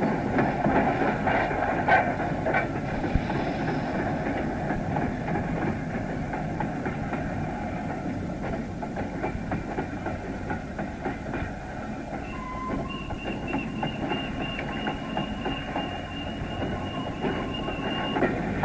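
Train hauled by the Flying Scotsman steam locomotive running, its wheels clattering over rail joints over a steady rumble. A thin, steady high whine joins about twelve seconds in and stops near the end.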